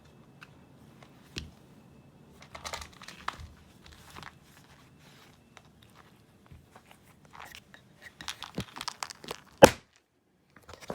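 Irregular crinkling and crunching noises, with short scrapes and light clicks in two clusters and one sharp click near the end.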